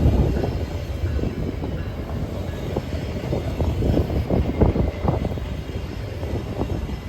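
A train rolling by with its wheels clicking over the rail joints over a low rumble, the sound easing off over the first second.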